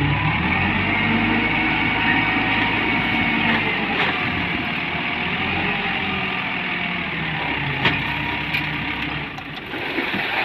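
Diesel engine of a dump truck heavily loaded with sand, running steadily under load with a low engine note that fades about nine seconds in. A few sharp knocks are heard along the way.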